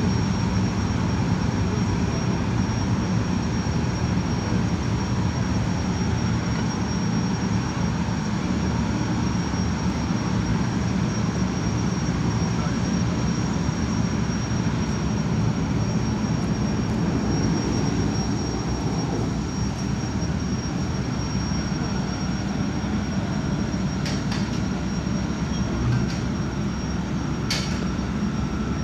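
Jetfoil's gas turbines running with a steady rumble and a thin high whine as the vessel departs, with a few sharp clicks near the end.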